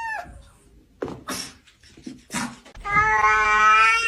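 A cat meowing: a call trails off just after the start, a few short noisy sounds follow, then about three seconds in a loud, long, drawn-out yowl that holds one pitch.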